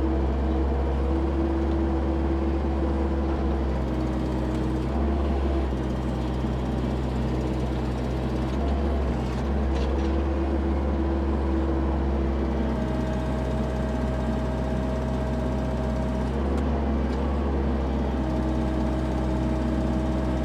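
Diesel engine of heavy equipment running steadily, its pitch shifting up and down in small steps every few seconds as the load changes.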